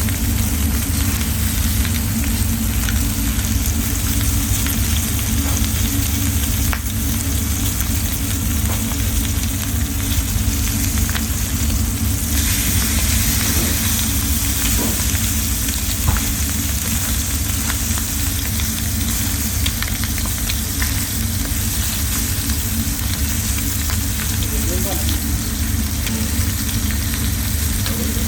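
Chicken frying in a pan with a steady sizzle, and scattered clicks of a utensil stirring it, over a steady low hum.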